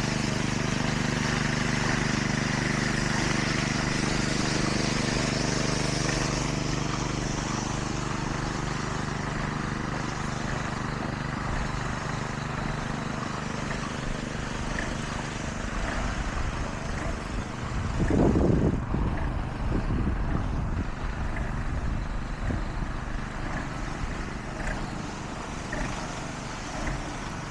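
Engine of heavy road-construction machinery running steadily with a droning hum. A louder rumble comes about two-thirds of the way through.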